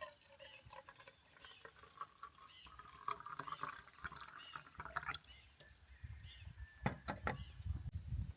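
Liquid pouring and dripping, with scattered clicks and knocks, and heavier thuds in the last couple of seconds.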